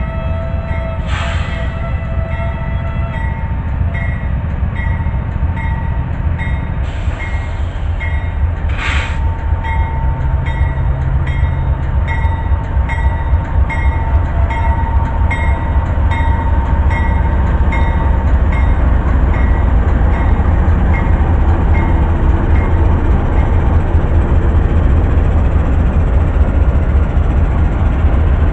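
Freight train's diesel locomotives rumbling and growing steadily louder as the train gets under way. A locomotive bell rings evenly through the first two-thirds, and a few short hisses come near the start and about a third of the way in.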